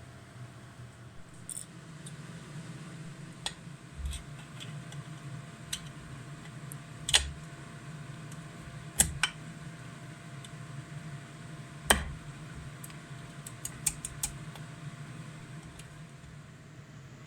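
Scattered sharp clicks and knocks of tools and metal engine parts being handled, the loudest about halfway through and again near the two-thirds mark, over a steady low hum.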